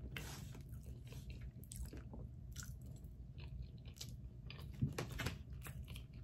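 A person chewing a mouthful of eggs mixed with avocado close to the microphone, with scattered small mouth clicks and a slightly louder moment about five seconds in.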